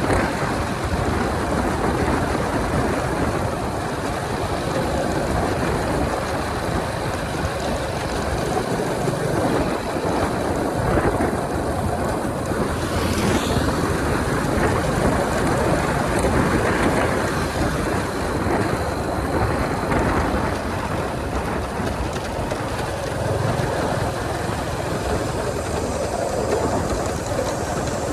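Wind rushing over the microphone with road noise from a Honda 125 motorcycle riding at speed. A brief rising-and-falling hiss comes about halfway through.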